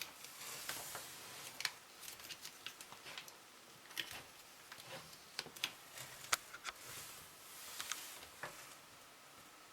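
Scattered light clicks and taps with some rustling, the sound of small hard objects being handled.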